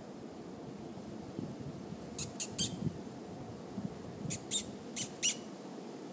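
Cardinal giving short, sharp high chip notes: three in quick succession about two seconds in, then four more between about four and five seconds in.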